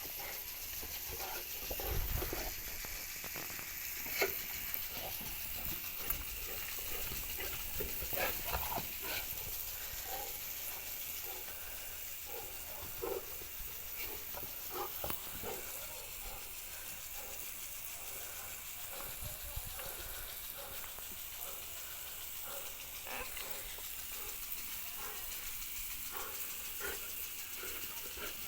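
A Boerboel (African mastiff) snoring in its sleep, in irregular noisy breaths, over a steady background hiss.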